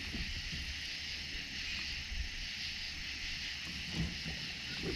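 2016 Hobie Pro Angler 12 kayak under way on its Mirage pedal drive, with faint low water and hull sounds and small knocks under a steady high hiss.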